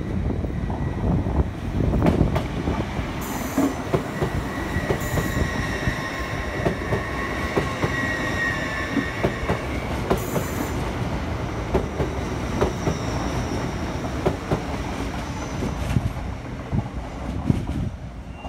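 Hull Trains Class 802 multiple unit pulling out and passing close by: the wheels rumble and click over the rail joints, and a steady whine from the train's running gear rises through the middle of the pass. The sound fades as the train draws away near the end.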